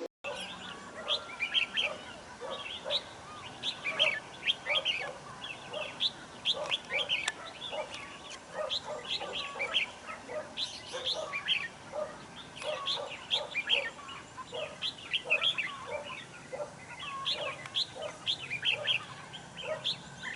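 Recorded birdsong: many birds chirping in a dense stream of short, quick calls, with a lower note repeating underneath.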